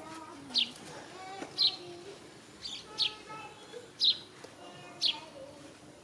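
A bird chirping repeatedly, a short high falling note about once a second.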